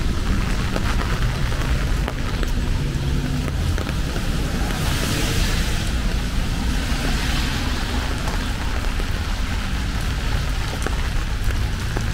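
Rain on a city street, an even hiss over a steady low rumble; about five seconds in, a louder hiss swells and fades over a few seconds.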